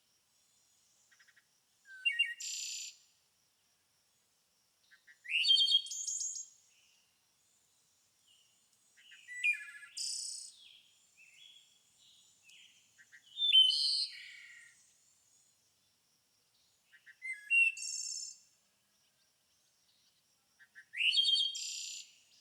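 A songbird singing short song phrases, six in all, one roughly every four seconds with silence between; each phrase has quick rising notes followed by a high buzzy section.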